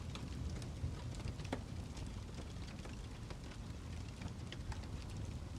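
Fireplace fire crackling: scattered small pops and snaps over a low, steady rumble.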